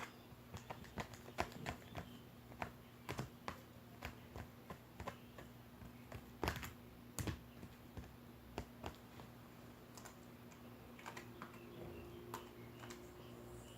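Irregular light clicks and taps, a few a second, with a louder knock about six and a half seconds in, over a faint steady hum.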